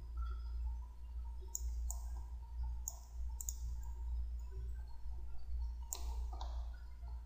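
Computer mouse clicking a handful of times, single sharp clicks spaced irregularly about a second or more apart, over a steady low hum.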